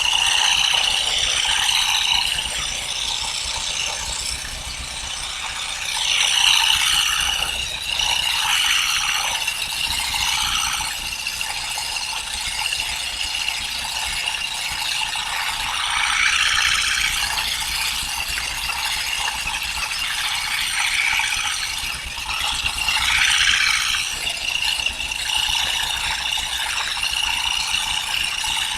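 Continuous rapid mechanical rattling and clicking, swelling louder every several seconds.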